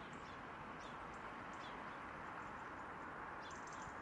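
Small birds chirping now and then, short high chirps over a steady hiss, with a quick run of chirps near the end.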